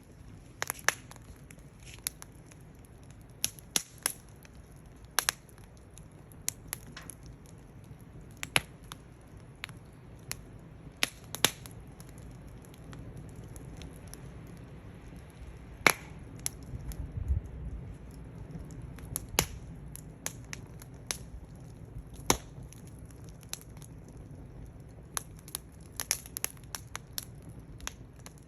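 Wood fire crackling, with sharp pops at irregular intervals over a low steady rush of burning.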